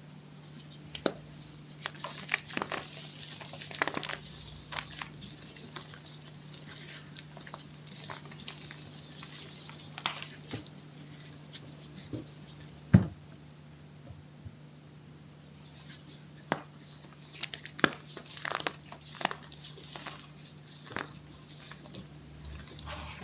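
Close-up crisp crunching and crackling of chalk, in irregular clusters of small cracks, with one sharp knock about 13 s in. A faint steady hum lies underneath.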